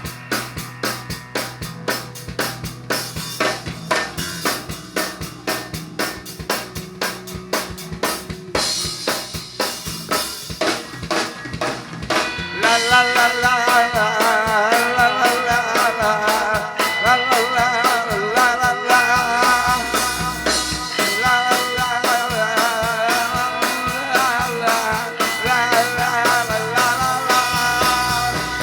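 Psychedelic rock music: a fast, steady drumbeat, joined about twelve seconds in by louder, sustained, wavering instrumental lines.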